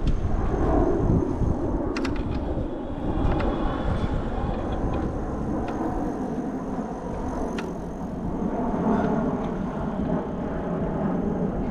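Street traffic noise: a steady low rumble of passing vehicles, with a few sharp clicks about two seconds in and again later.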